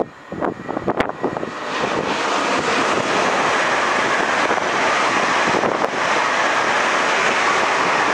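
Train passing close by at speed: irregular clattering for the first second and a half, then a steady, loud rushing roar.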